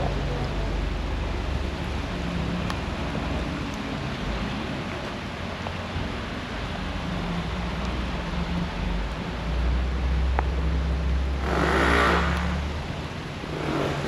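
Road traffic with a steady low rumble, and a car passing close by near the end, its sound rising and falling over about a second.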